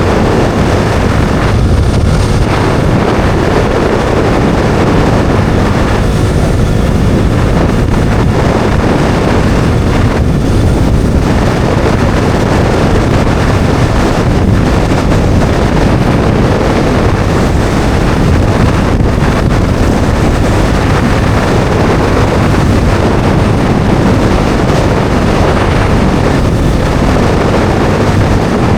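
Bajaj Dominar 400's single-cylinder engine running at a steady cruise while the motorcycle is ridden, under loud, steady wind noise buffeting the microphone.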